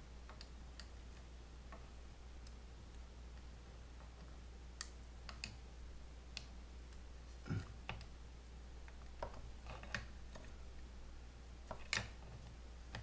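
Scattered light clicks and taps of plastic being handled as zip ties are threaded through a PVC pipe cover and fastened, a couple of them louder, over a low steady hum.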